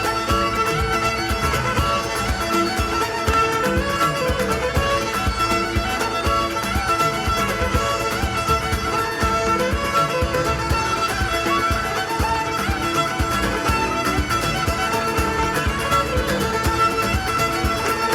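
Folk band playing live, a lively instrumental passage with the fiddle leading over a steady beat.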